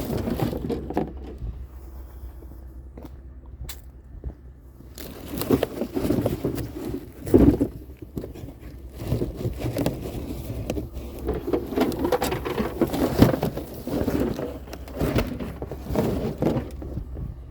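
Irregular scraping, rustling and knocking, as of objects being handled and moved, over a steady low hum.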